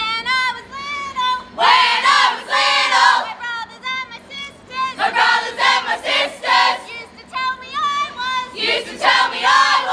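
Several high-pitched young voices singing together in short, gliding phrases. The singing comes in three main stretches with pauses between them.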